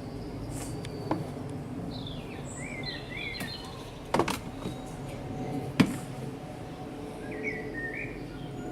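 Small songbirds chirping in short phrases over a steady low rumble, with two sharp knocks about four and six seconds in.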